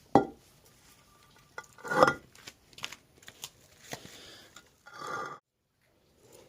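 Hard knocks, clicks and clatter of small objects being handled, with a loud knock just after the start and another cluster about two seconds in. A short rushing hiss lasts about half a second near the end, then the sound cuts off abruptly.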